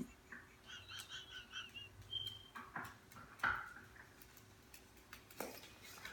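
A parrot's rapid chattering calls, several short notes a second, then a few sharp squawks and knocks, the loudest about three and a half seconds in.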